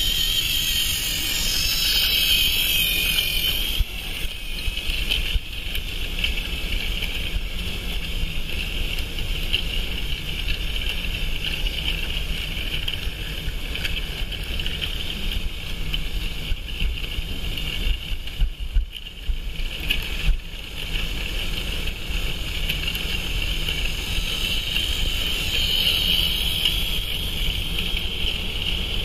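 Long motorised Tomy toy train running steadily around plastic track, its small motor giving a constant high whine over a low hum. The sound dips briefly, with a few clicks, about two-thirds of the way through.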